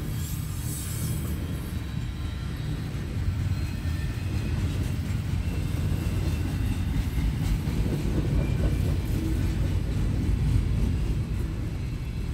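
Freight train rolling along the track: a steady low rumble that slowly builds.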